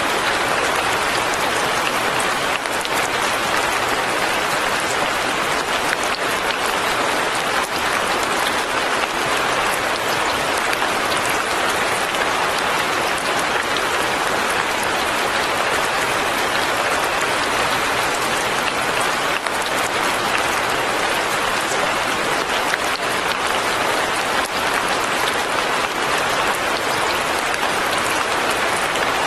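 Steady light rain falling, an even patter of drops with no change in strength.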